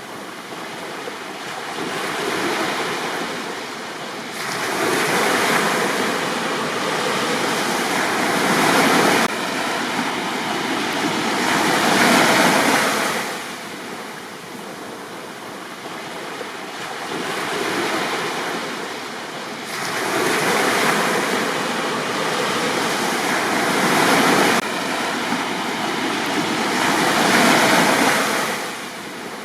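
Sea waves breaking and washing up a beach, swelling and fading in slow surges a few seconds long.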